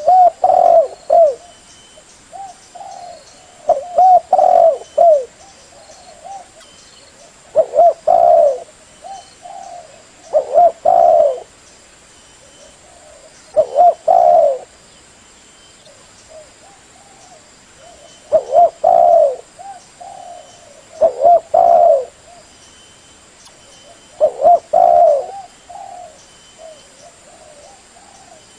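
Spotted dove (tekukur) cooing: about eight coo phrases, each a second or so long, repeating every three to four seconds. Faint high chirps sound between the phrases.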